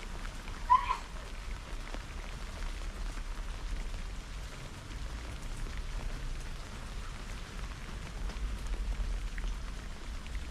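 Steady rain falling during a thunderstorm, a constant hiss with scattered drop ticks. About a second in, one brief high-pitched chirp stands out over the rain.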